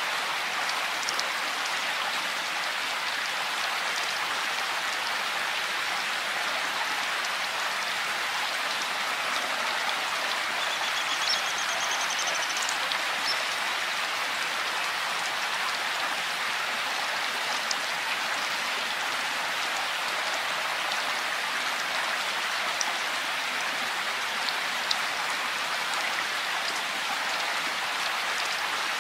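Steady rain falling, an even hiss with scattered individual drops ticking. A faint short high trill sounds briefly near the middle.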